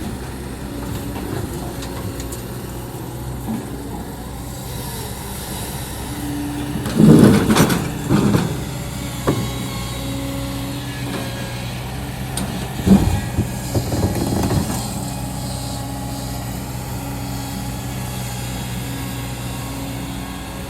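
Excavator's diesel engine running steadily under load while its bucket digs into hard rock, scraping and knocking loudly twice, about seven and about thirteen seconds in.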